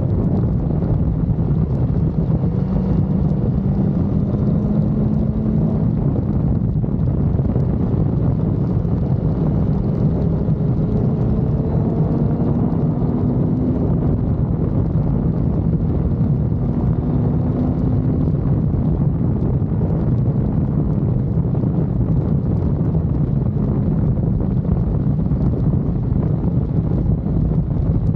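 Wind rushing over the microphone on a sportbike at riding speed, with the inline-four engine heard underneath, its pitch rising and falling with the throttle.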